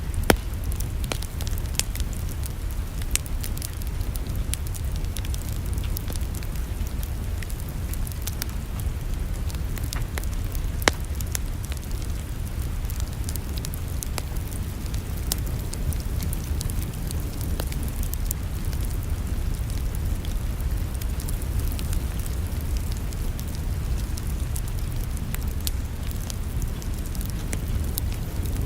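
Wood fire crackling in a fireplace: scattered sharp pops and snaps, a louder pop at the very start and another about eleven seconds in, over a steady low rumble.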